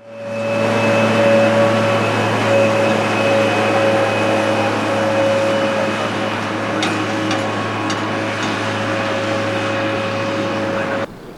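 Jet airliner engines running with a steady roar and a high whine. The sound fades in at the start and cuts off abruptly near the end.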